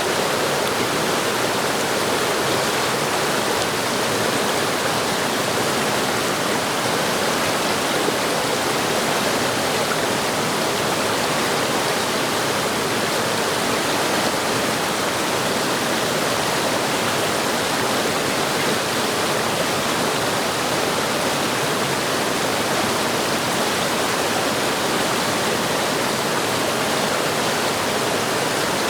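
Waterfall and fast-running stream water rushing, a steady unbroken roar.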